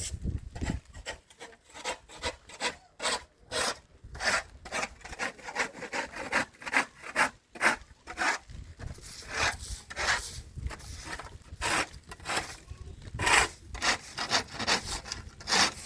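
Repeated rasping, scraping strokes, about two to three a second, going on steadily.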